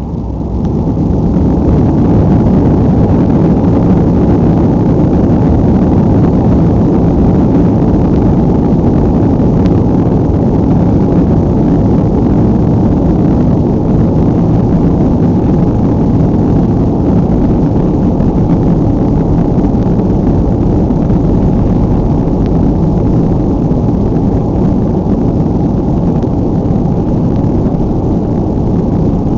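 A BAe 146-300's four Lycoming ALF502 turbofans at takeoff power, heard from inside the cabin on the takeoff roll. A loud, muffled, steady rumble that builds over the first two seconds, then holds.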